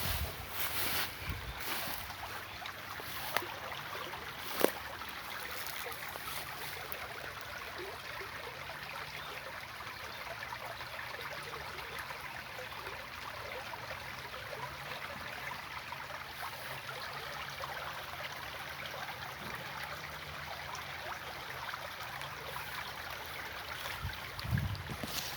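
Steady rushing of running water from a stream, with a few sharp knocks in the first five seconds.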